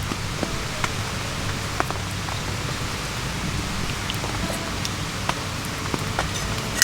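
Steady rain falling, with many separate drops ticking against surfaces close by.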